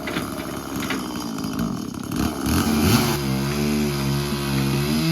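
An engine speeds up about three seconds in, then runs at a steady pitch with a slight waver. Some scattered clicks come before it.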